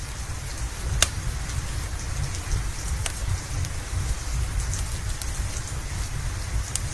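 Steady rain with a low rumble underneath. A few sharp pops of a crackling wood fire stand out, the loudest about a second in and again about three seconds in.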